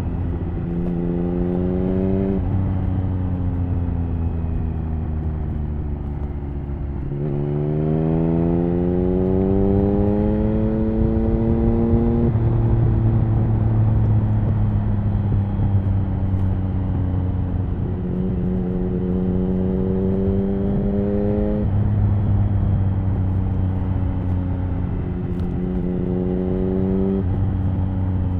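Triumph Speed Triple 1050's inline three-cylinder engine through an HP Corse Hydroform exhaust, pulling hard under acceleration: the pitch climbs steadily and drops abruptly at each upshift, several times over, with a stretch where it eases off and falls slowly. Wind and road noise run underneath.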